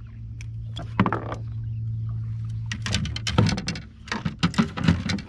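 Gear and a freshly landed catfish handled on a kayak: one sharp knock about a second in, then a quick run of clattering knocks and thumps near the end, over a steady low hum.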